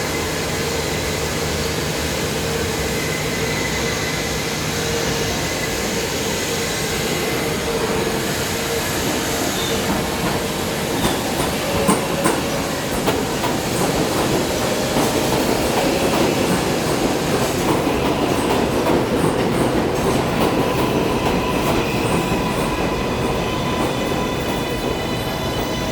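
New York City subway train in motion: a steady rail rumble that grows louder about halfway through, with a few clacks of the wheels over the rails. There is faint wheel squeal.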